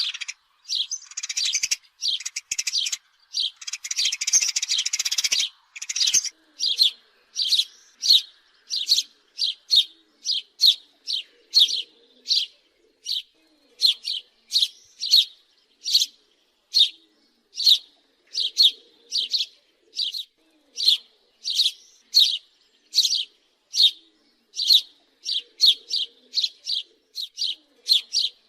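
House sparrow chirping: a steady run of short, high, repeated cheeps at about two a second, with a denser, noisier chattering stretch in the first few seconds.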